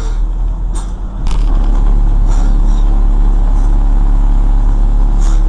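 Motor vehicle running with steady engine and road noise; it gets louder about a second in, just after a couple of sharp clicks.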